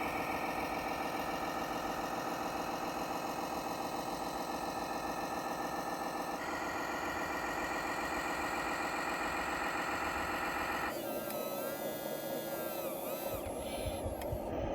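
Electronic sound module of an RC model tractor playing a diesel engine running steadily. The sound shifts about six seconds in, and about eleven seconds in changes abruptly to a different, wavering pitched tone.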